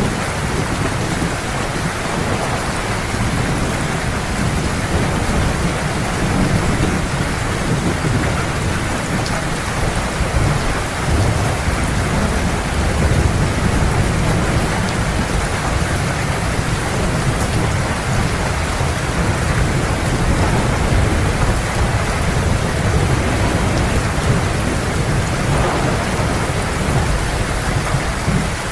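Heavy rain pouring steadily, with low thunder rumbling and rolling underneath, swelling and easing without a single sharp crack.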